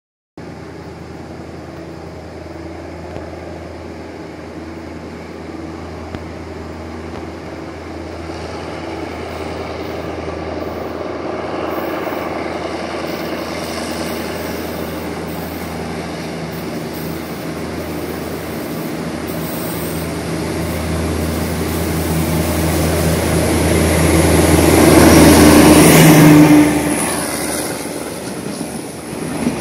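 Diesel engine of a DE24000 diesel-electric locomotive working a freight train: a steady engine hum growing louder as the locomotive approaches, peaking and then dropping off sharply about 26 seconds in as it passes.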